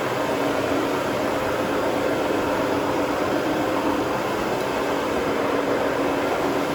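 Carpet-cleaning machine's motor running steadily, a constant hum over an even rush of air.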